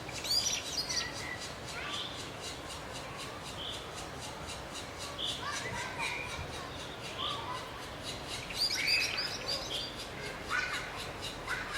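Birds calling: scattered short chirps, with louder chattering calls about half a second in and again around nine seconds in.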